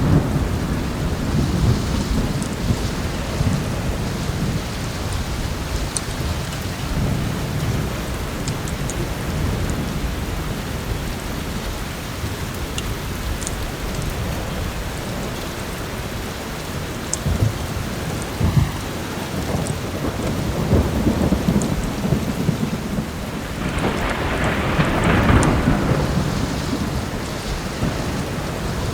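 Heavy rain with a continuous low rolling thunder, which swells into a louder thunder roll about five seconds before the end. Sparse sharp crackles of a wood fire sound over it.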